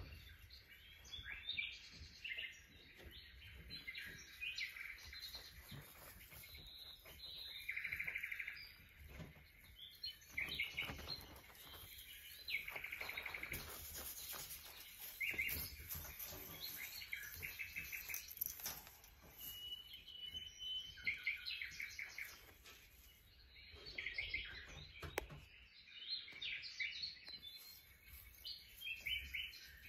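Faint chirping and trilling of small birds, short calls repeating on and off, with a few soft knocks.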